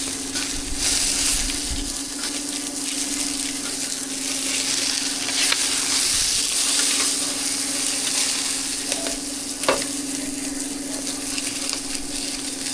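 Flatbread cakes frying in oil on a street-stall griddle: a steady sizzle, with a steady low hum underneath and a single sharp tap about ten seconds in.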